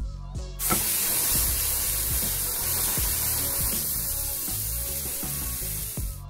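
Meatballs sizzling loudly in a hot cast-iron skillet as they are turned: a strong, steady hiss that starts suddenly about half a second in, over background music.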